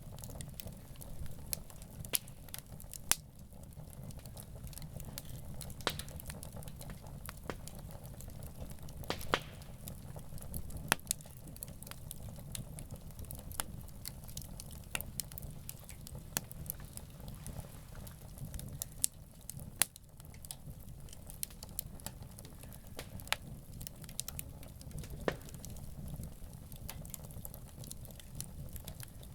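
Wood campfire crackling: irregular sharp pops and snaps from the burning wood, several of them much louder than the rest, over a steady low rumble.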